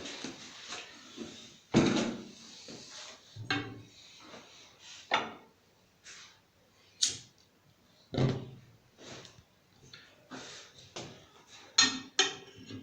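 Irregular knocks and clatters of objects being handled, about a dozen sharp hits spread over the stretch, each dying away quickly.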